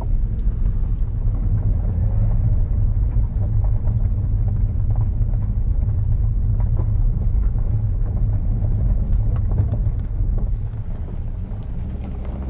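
Car driving on a road, heard from inside the cabin: a steady low engine and road rumble that eases off about ten seconds in as the car slows.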